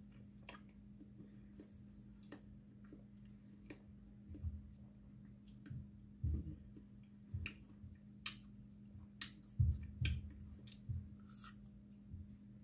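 Biting into and chewing a frozen watermelon ice pop: scattered sharp clicks of teeth on ice and crunching, with a few soft low thumps of chewing. A steady low hum runs underneath.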